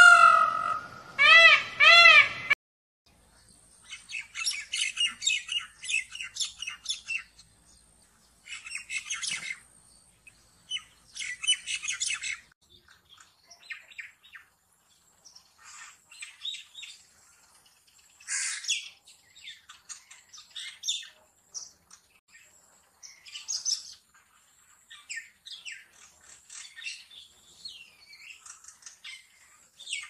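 Indian peafowl (peacock) giving a few loud, harmonically rich calls in the first two and a half seconds, cut off abruptly. After that, a common hill myna's varied chattering, whistles and squawks come in repeated bursts.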